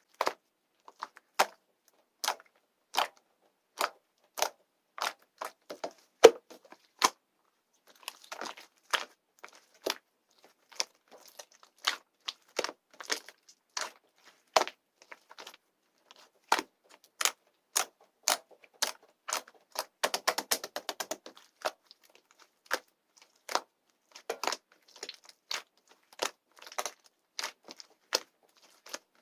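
Slime being worked by hand, giving sharp wet clicks and pops about once or twice a second, with a quick flurry of small crackles about twenty seconds in.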